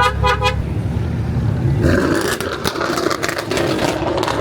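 Car horn beeping twice, quickly, over a steady low car engine rumble. About two seconds in, a loud rough rush of noise with rapid crackling sets in and runs on, like a car accelerating hard.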